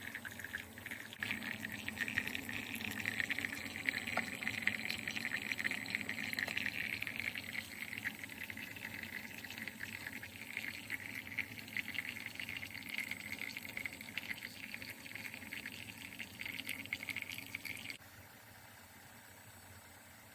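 Tastyle single-serve mini coffee maker brewing, hot water sputtering and coffee trickling steadily into the cup; the sound cuts off suddenly about 18 seconds in.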